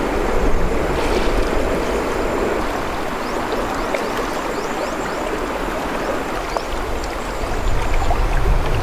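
Steady rush of flowing water, like a stream running.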